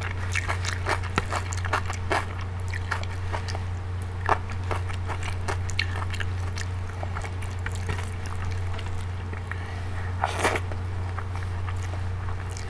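Close-miked eating of dal and rice by hand: chewing, wet mouth clicks and smacks, and the squelch of fingers mixing rice with dal, with a louder bite about ten seconds in. A steady low hum runs underneath.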